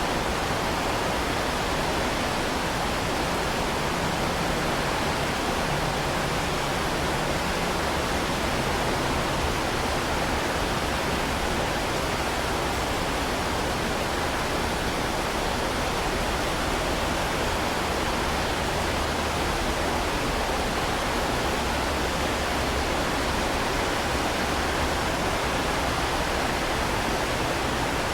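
Heavy rain falling in a steady, dense hiss, fullest in the middle range and without separate drops or pauses.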